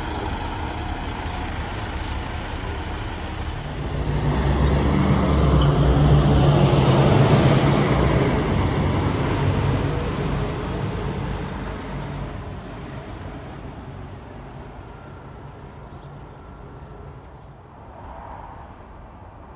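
A diesel bus drives past. Its low engine note and road noise swell about four seconds in, are loudest a few seconds later, then fade slowly away.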